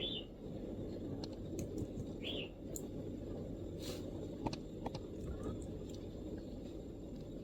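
Sparse MacBook keyboard keystrokes, a few scattered clicks at uneven spacing, over a steady low background hum. Two short high bird chirps, one right at the start and one a little over two seconds in.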